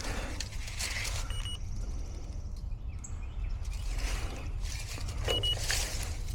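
Rustling and scuffing of someone moving about and handling things, over a steady low rumble, with two short high beeps about four seconds apart.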